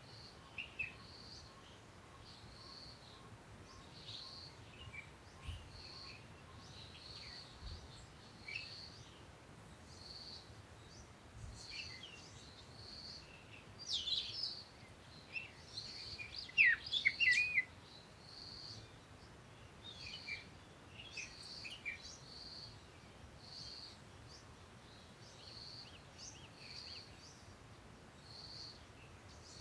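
Birds chirping: one repeats a short high note about every second and a half, while others chirp irregularly, loudest in a burst of quick chirps around the middle.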